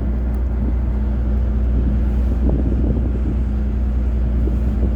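Fishing boat's engine running at a steady speed, a constant low drone.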